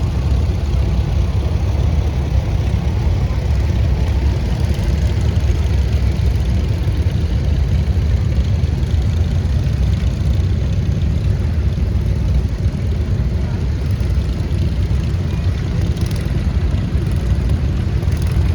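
Tractor engines running steadily, with a heavy low rumble.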